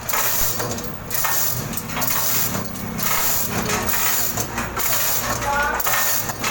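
An engine running steadily, with irregular knocking and metal clatter over it.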